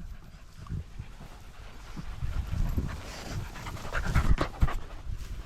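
Dogs panting close by, over rustling handling noise, with a few sharp knocks about four seconds in.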